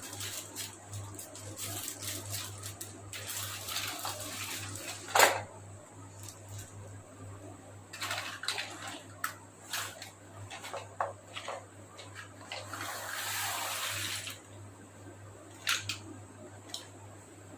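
Hands unpacking a miniature plastic toy set: plastic packaging crinkling and small plastic pieces clicking, with a sharp click a little after five seconds in.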